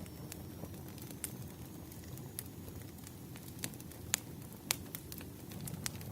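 Wood campfire crackling: irregular sharp pops and snaps over a low steady rumble of the flames, with the loudest snaps a little past the middle.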